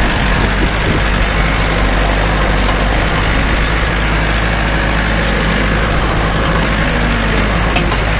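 Tractor engine running at a steady speed as it drives a three-point tedder rake through hay.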